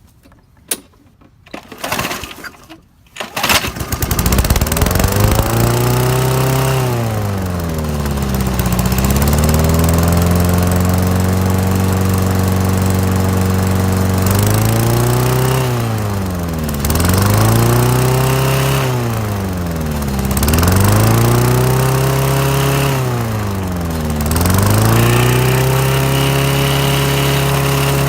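Single-cylinder Briggs & Stratton lawnmower engine being pull-started: a few short knocks from the pulls, then it catches about three seconds in and runs fast. Four times its speed sags and climbs back, the engine bogging as if about to die.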